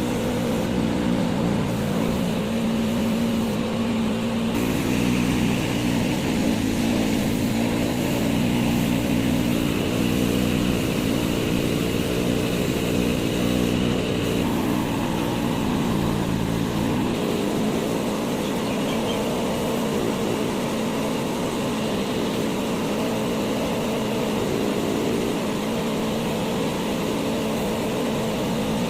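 A steady motor or engine drone that changes tone a few times.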